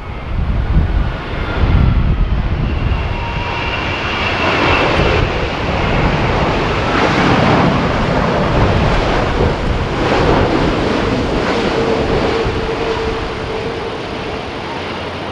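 Boeing 787 airliner's jet engines passing overhead on a landing approach, a loud rushing noise with a faint whine that builds and then slowly fades. Strong wind buffets the microphone in the first couple of seconds.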